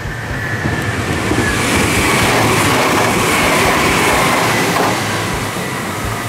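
Meitetsu 2000 series μSKY airport express train passing close by: the rumble and rush of its wheels on the rails, with a faint steady whine. It swells to its loudest about two to four seconds in, then eases as the train goes away.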